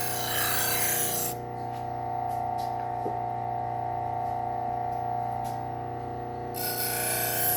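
Bucktool low-speed sander running with a steady hum while a knife edge is stropped on its compounded leather wheel, giving a hissing rub. The rubbing stops about a second in and picks up again near the end, leaving only the motor hum and a few faint ticks between.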